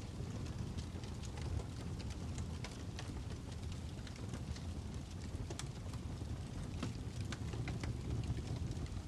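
Crackling fire: a steady low rumble with frequent sharp, irregular pops and snaps.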